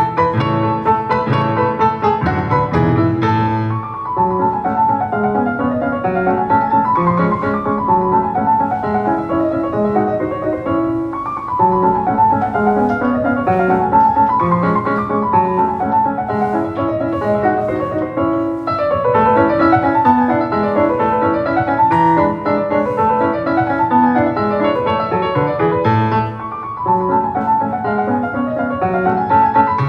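Instrumental piano music: a flowing melody over sustained chords, with no voice.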